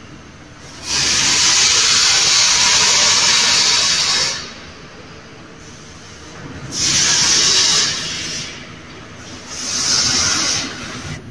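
Three bursts of loud hissing. The first lasts about three seconds; the next two, a few seconds apart, last about a second each.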